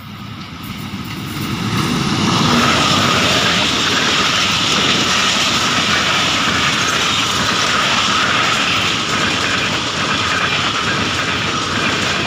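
Pakistan Railways diesel-hauled passenger train passing close by at speed. The noise swells quickly over the first two seconds as the locomotive arrives, then the coaches go by with a steady loud rush of wheels on the rails and a high ring running through it.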